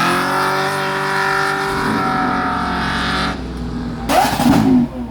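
A car engine revved hard and held near the top of its range for about three seconds, then let off suddenly. A short loud burst follows about a second later.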